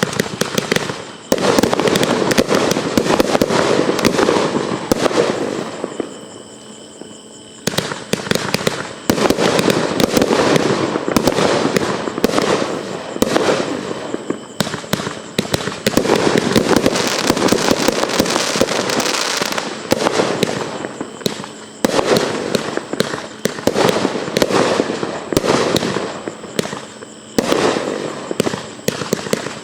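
A 90-shot 500 gram consumer fireworks cake (Golden Metro Dreams) firing a rapid, continuous barrage of shots and crackling breaks. There is a quieter stretch about six seconds in, and then the barrage resumes.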